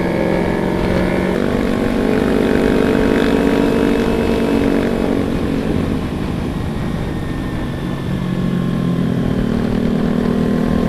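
Motorcycle engine running while riding, its pitch rising about a second and a half in, falling back around the middle, then rising again, with wind and road noise.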